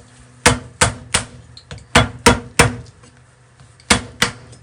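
Kitchen knife chopping garlic on a cutting board: eight sharp knocks in three quick groups of three, three and two.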